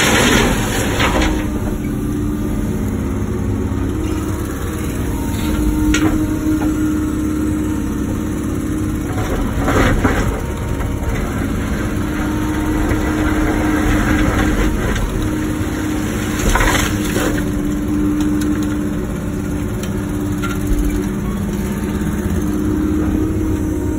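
Wacker Neuson ET145 excavator's diesel engine running steadily, its pitch swelling and easing as the hydraulics take load. Several short bursts of scraping and clatter come from the bucket working dirt and rock.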